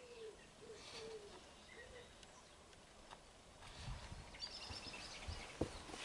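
Faint outdoor bird calls: a few short low calls in the first two seconds, then high chirping about four seconds in. Low thumps and a sharp knock come near the end.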